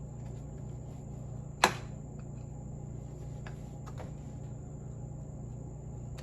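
A single sharp click about a second and a half in, then a couple of faint ticks, from the steering box parts being handled while the sector shaft's lash adjuster is worked; a steady low hum runs underneath.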